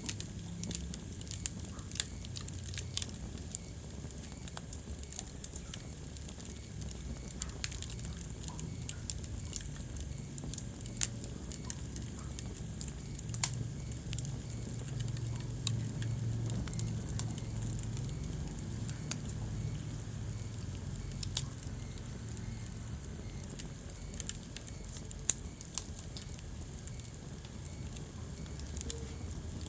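Wood fire burning in a fireplace, crackling steadily with irregular sharp pops over a low rumble of the flames; a few louder snaps stand out, including one about two seconds in and one near the end.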